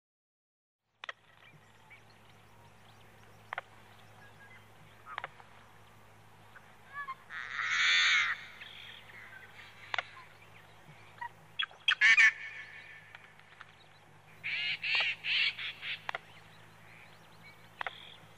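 Birds calling: a few loud, separate calls spread through, with a quick run of calls near the end, over a faint steady low hum and scattered clicks.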